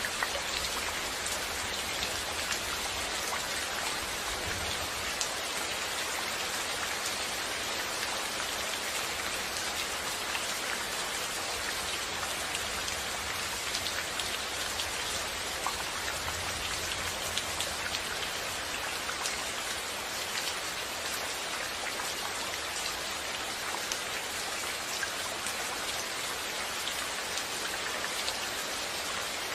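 Steady rain falling and pattering on a surface, an even hiss dotted with individual drop ticks.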